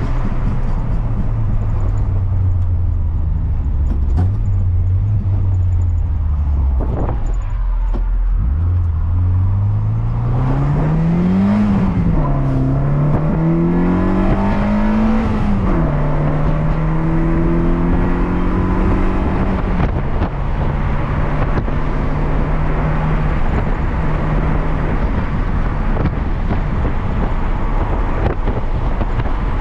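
Rover K-series engine from a Lotus Elise, heard from inside the Metro's cabin, over steady road and wind noise. The revs sag off for the first several seconds, then climb hard. Two quick upshifts come about twelve and sixteen seconds in, and the engine then holds a steady cruise.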